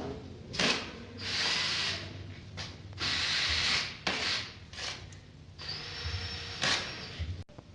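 Short spatula scraping and spreading tile adhesive over drywall: three longer scraping strokes with several short swipes between them.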